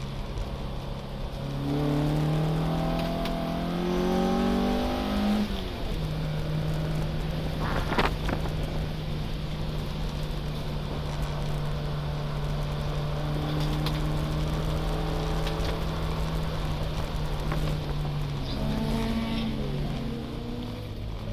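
In-cabin sound of a BMW 02 race car's four-cylinder engine under racing load. The engine note climbs and steps up for a few seconds, then holds at steady revs for a long stretch, with one sharp knock about eight seconds in. Near the end it rises briefly again, then drops to a lower pitch.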